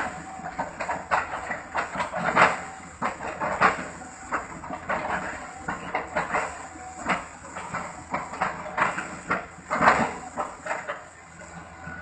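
Excavator chopping up old oil palm trunks: irregular knocks and crunches of the bucket splitting wood, over a steady engine hum.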